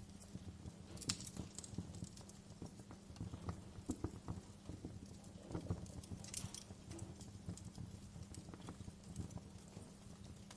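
Wood fire crackling, with irregular pops and snaps over a low, steady rumble. The sharpest snaps come about a second in and again around six and a half seconds.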